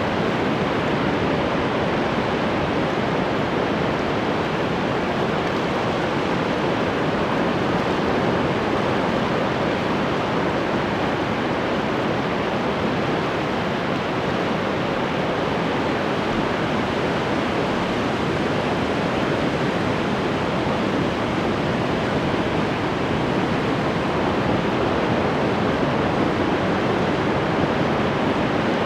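Ocean waves and surf making a steady, even wash of noise, with no separate breakers standing out.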